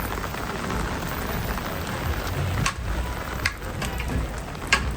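Steady hiss of falling rain with a low rumble beneath, and a few sharp ticks in the second half.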